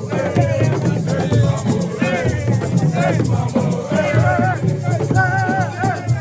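Live assiko music: a voice singing over a steady rhythm of shakers and drums.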